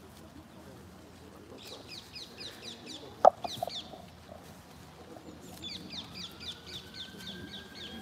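A bird calling in fast runs of short, repeated high notes, with one sharp sound a little over three seconds in. A siren starts to wail about six seconds in.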